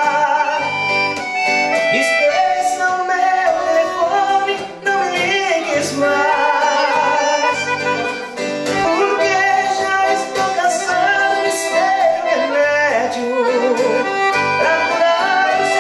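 A sertanejo band playing an instrumental passage of the song: a sustained lead melody over a steady, repeating bass beat.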